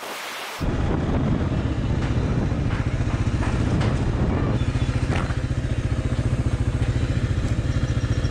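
Single-cylinder engine of a 2014 Kawasaki KLR650 motorcycle running at low riding speed, heard from on the bike as a fast, even pulsing beat. It comes in about half a second in after a brief hiss of wind, with a few short knocks near the middle.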